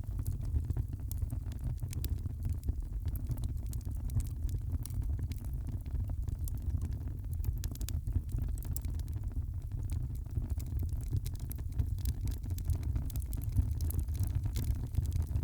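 Wood fire burning in a fireplace: a steady low rumble of flames with many small, sharp crackles and pops scattered throughout.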